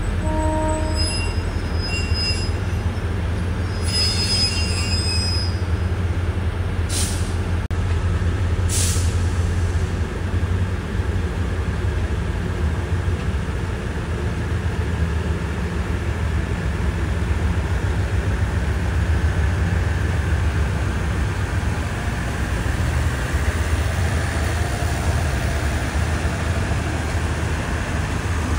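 A passenger train of coaches rolls slowly past with a steady low rumble. Brief high wheel squeals come in the first few seconds, and two short hisses come about seven and nine seconds in.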